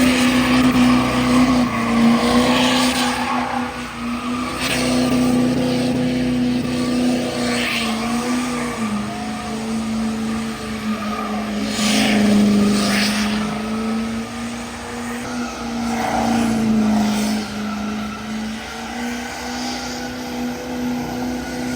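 Pickup truck engine held at high revs during a burnout, with its pitch dipping slightly now and then, over the hiss of spinning tyres.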